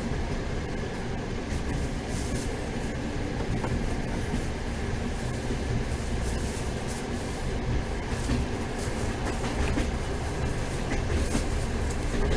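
Passenger train running along the track: a steady low rumble of the carriage with scattered clicks from the wheels.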